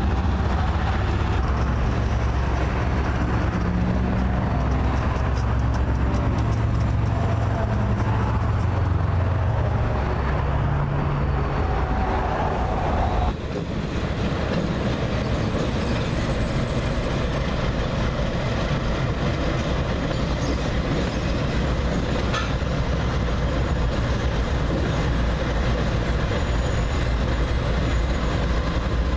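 Diesel-electric freight locomotives passing close by: a steady low engine drone with wheel and rail noise from the train. About halfway through the sound switches abruptly to another freight train rolling past, a steady rumble with clatter from the cars.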